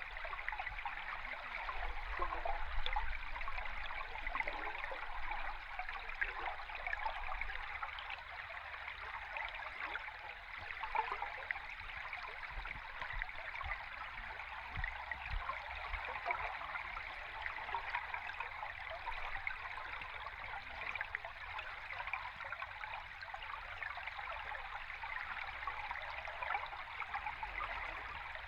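Flowing river stream recorded underwater: a steady rush of water, dense with fine crackles, over a low rumble.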